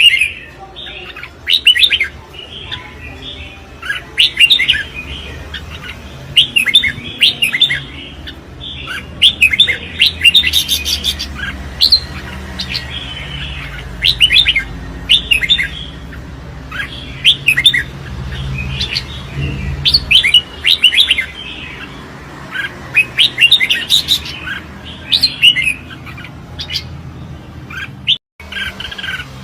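Red-whiskered bulbul singing contest song: short, bright, warbling phrases repeated every second or two, with a brief break near the end.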